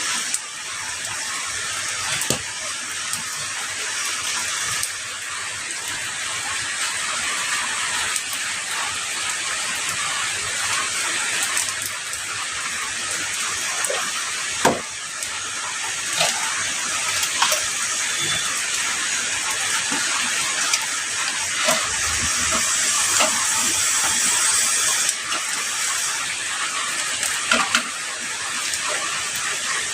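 Heavy rain falling steadily, a dense hiss with scattered sharper drop splats and ticks.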